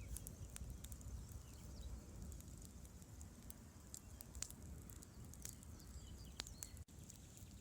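Campfire crackling, with irregular sharp pops and snaps over the low steady rush of a river. The sound drops out for an instant near the end.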